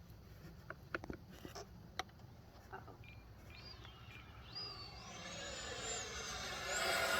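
Electric ducted fan of an FMS Viper 70mm RC jet whining in flight. It is faint at first, rises in pitch about three and a half seconds in, then holds a high steady tone with a rushing sound that grows louder toward the end.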